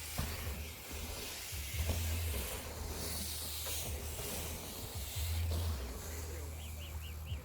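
BMX tyres rolling over packed dirt trails with a steady hiss, over a low rumble that swells in a couple of surges. A few short high chirps come near the end.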